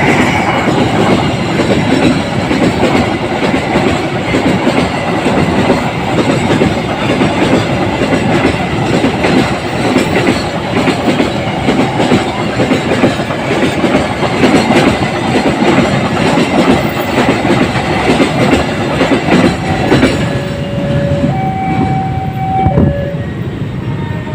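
A train passing over a level crossing, its wheels clattering steadily on the rails for about twenty seconds. Near the end a horn sounds in a few steady notes, stepping up in pitch and back down.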